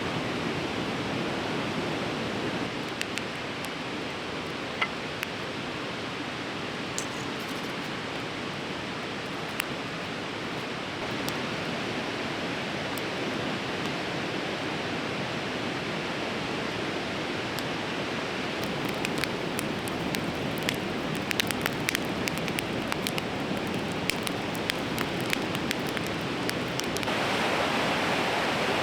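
A fast, swollen river rushing in a steady roar of water, with scattered sharp clicks over it that come thickest in the second half, and a louder, brighter rush near the end.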